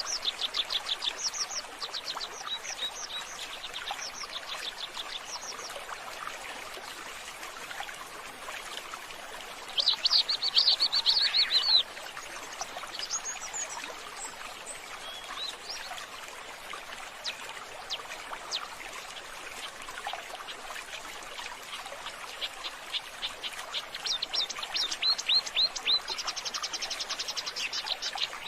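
Birds chirping in quick repeated series of short high notes, with a louder, denser burst of chirping about ten seconds in that lasts around two seconds.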